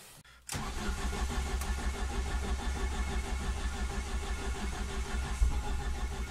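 Ford Focus ST170 four-cylinder engine with individual throttle bodies cranking on the starter motor, starting about half a second in, with a steady, even pulse and not yet firing. This is a hard cold start on a fresh tune that has been difficult to start.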